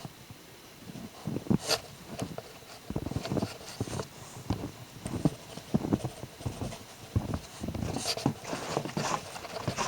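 Footsteps crunching through several inches of fresh snow, an irregular run of soft thuds with sharper crunches.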